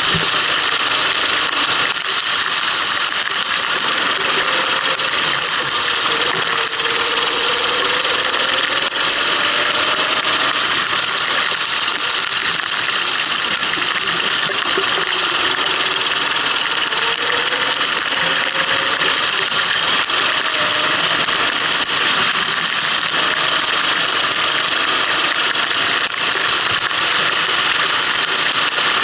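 Racing kart engine heard onboard, running continuously, its pitch slowly rising and falling as the kart speeds up and slows, under a steady hiss.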